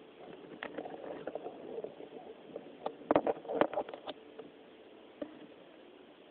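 A sleeping cat lying face-down breathes noisily through a blocked nose, wheezing and snuffling, with a burst of sharp snorting clicks about three seconds in.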